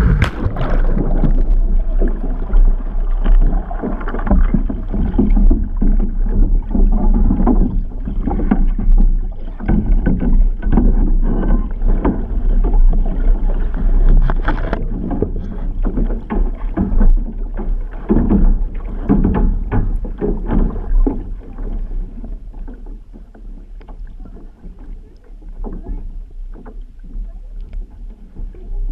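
Water rushing and splashing around an outrigger canoe under way, with a steady low rumble of wind buffeting the camera's microphone. It is loud for most of the stretch and eases off in the last several seconds.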